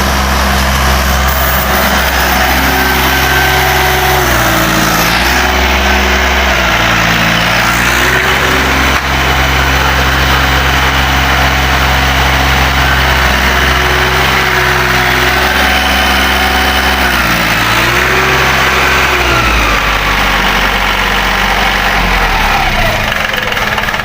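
Freshly rebored and reassembled three-cylinder engine running, its speed dropping and picking back up several times, then sagging lower near the end.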